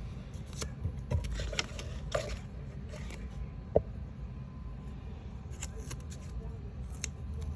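Paper sheets being handled during papercraft work: light rustling and small scattered clicks, with one sharp click about four seconds in.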